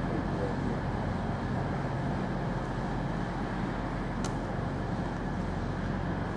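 Freight train of yellow open wagons rolling slowly past behind an EWS Class 66 diesel locomotive, whose two-stroke V12 engine drones steadily under the wheel rumble. There is one brief sharp tick about four seconds in.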